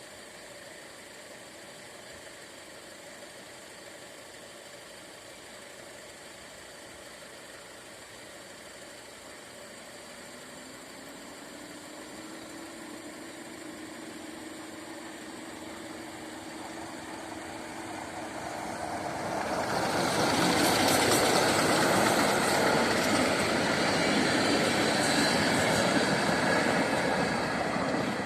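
A train approaching and passing close by, growing steadily louder. It is loudest for several seconds about two-thirds of the way through, then begins to fade near the end.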